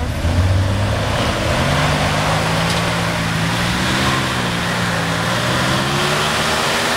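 A vehicle engine running hard under load. Its revs climb over the first couple of seconds, hold high, then dip and rise again about four seconds in.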